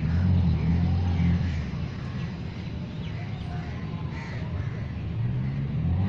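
Birds calling faintly in the background, short scattered calls, over a low rumble that swells in the first second or so and again near the end.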